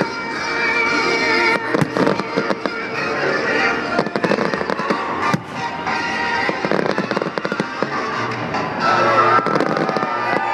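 Fireworks bursting and crackling in quick succession, over loud music played for the display.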